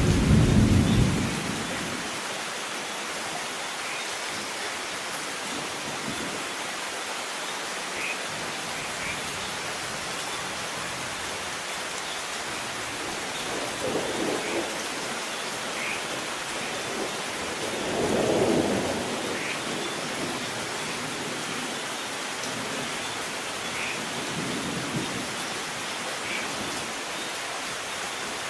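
Steady rain with rolls of thunder. A rumble dies away in the first two seconds, a weaker roll comes about halfway, a louder one about two-thirds in, and a faint one near the end.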